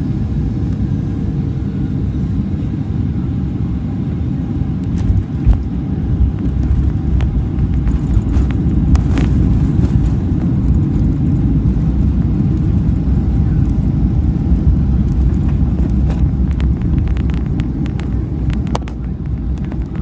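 Cabin noise inside a Boeing 737-400 during the landing at Hamburg: a steady low rumble of the engines and airflow, with scattered rattles and clicks. There is a knock about five seconds in, after which the rumble grows a little louder, then it eases near the end.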